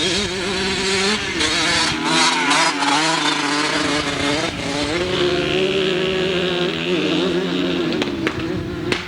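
Dirt bike engine running close by, its pitch rising and falling as the rider works the throttle. A sharp click comes near the end.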